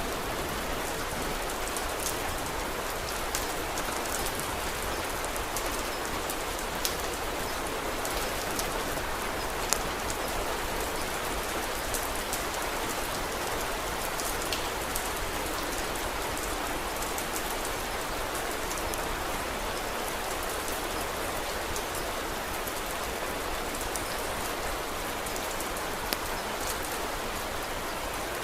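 Steady rain falling, with a few sharp crackles from a wood fire scattered through it.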